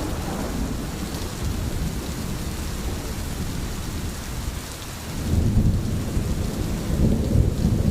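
Rain falling steadily in a dense hiss, with a deeper rumble swelling about five seconds in.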